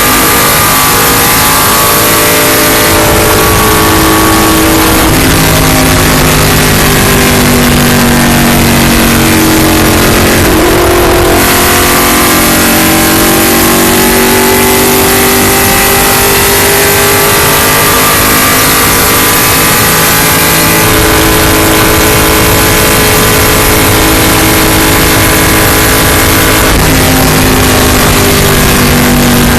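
Onboard sound of an Indy-style race car lapping at speed: the engine runs hard under a loud rush of wind and road noise, its pitch sagging briefly about ten seconds in and then climbing again.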